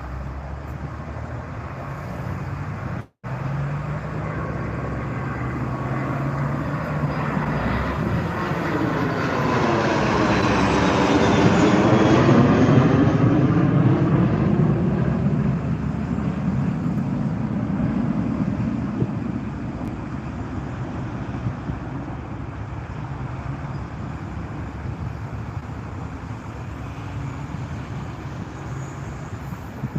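A jet aircraft passing close by: a steady roar that swells to its loudest about twelve seconds in, with a whooshing, sweeping quality and a faint falling whine as it goes past, then fades. The sound breaks off for an instant about three seconds in.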